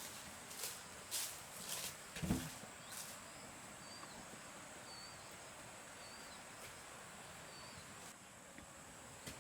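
Outdoor rural ambience: a steady high insect whine, a few scattered knocks and taps with one dull thump about two seconds in, then a run of five short, high chirps about a second apart.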